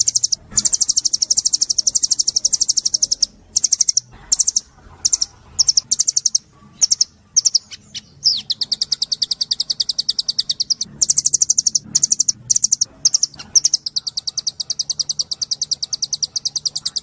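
A small songbird singing fast, high-pitched trills. It opens with a long trill, breaks into short bursts and single notes in the middle, then goes back to long trills.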